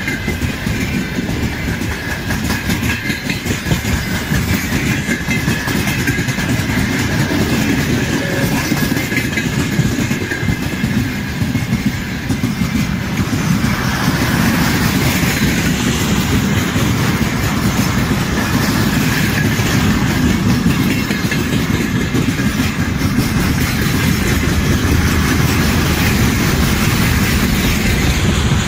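Freight train of open gondola wagons and tank cars rolling past close by: steady rumble and clatter of steel wheels on the rails, taking on a brighter, hissier edge about halfway through as the tank cars go by.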